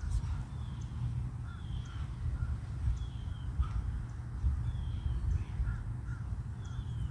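Birds calling now and then over a steady low rumble: about five short, falling high calls spaced a second or two apart, with softer chirps between them.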